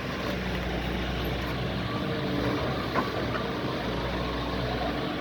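Doosan DX140 excavator's diesel engine running steadily, with a single sharp knock about three seconds in.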